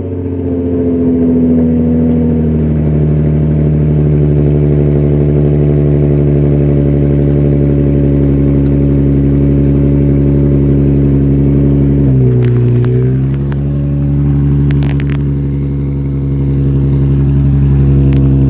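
Infiniti G35's 3.5-litre V6 idling just after a cold start, heard through an exhaust with the resonator deleted. The high cold idle eases down a little over the first couple of seconds, then holds steady, with a brief dip in engine pitch about twelve seconds in and a few faint clicks soon after.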